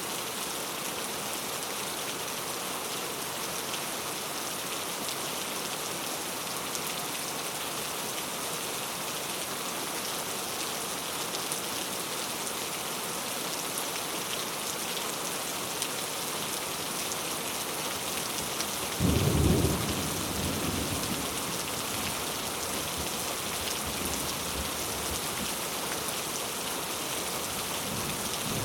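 Steady heavy rain falling, with a sudden low rumble of thunder about two-thirds of the way through that fades out over several seconds.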